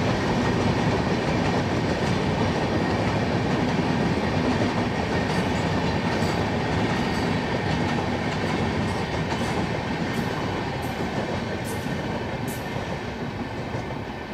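Passenger express train's coaches rolling past on the track, with a steady rumble and sharp clicks from the wheels over the rail joints. The sound slowly fades in the second half as the last coach goes by.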